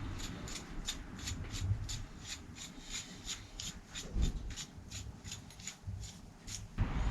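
Rhythmic rasping or scraping strokes, about three a second. Near the end they stop and a louder low rumble comes in.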